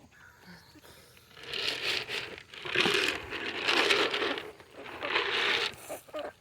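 Rustling, crinkling and scraping of animal feed being handled, in four bursts of about a second each, the loudest near the middle.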